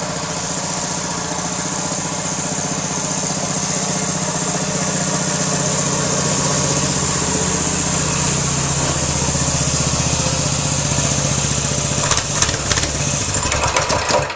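A 6.5 horsepower single-cylinder small engine running steadily. Near the end there are a few knocks and the engine stops.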